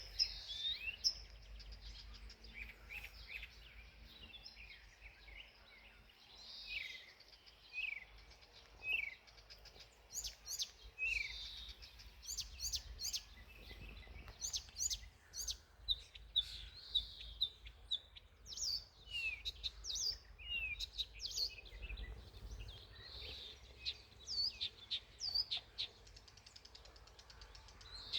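Songbirds chirping and singing, with many short, quick notes, a good number of them sliding down in pitch, overlapping one another.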